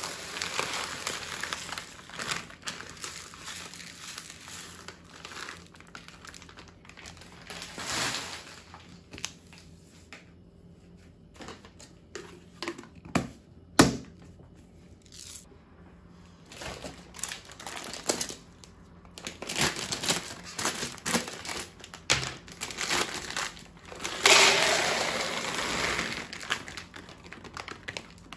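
Plastic food packets crinkling and rustling as they are handled, with scattered clicks and knocks of containers. A sharp knock comes about halfway through, and a longer, denser stretch of rustling near the end.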